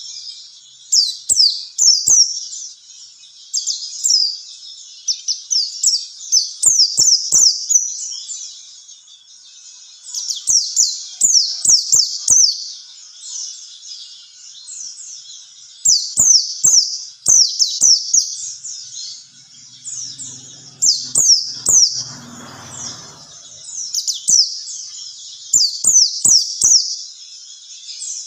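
White-eye (pleci) song used as a tutor track: rapid, high, twittering chirps in dense bursts of a few seconds, separated by short pauses. About two-thirds of the way in, a brief low rumble sits underneath.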